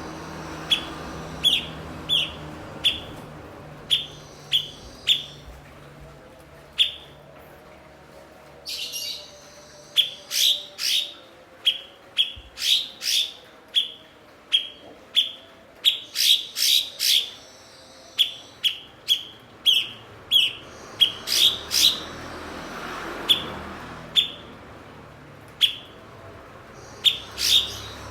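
Cucak cungkok, a bulbul prized as a mimic, singing a string of short, sharp chirps, each a quick downward sweep. They come singly at first, then in fast runs through the middle, then spaced out again, over a faint low hum.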